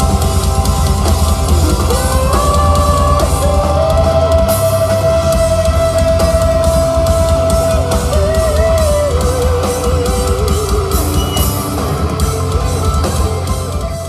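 Live rock band playing loud, with fast driving drums under a long held lead note that bends and then wavers, the sound starting to fall away at the very end.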